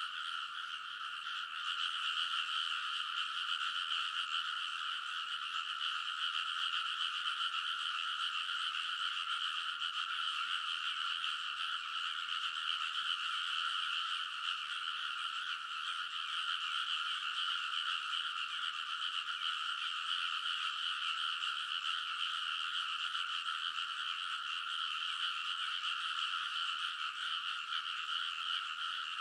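A dense chorus of many frogs calling together from a rice paddy, a steady, unbroken mass of croaking that dips a little in the first second or so and then holds.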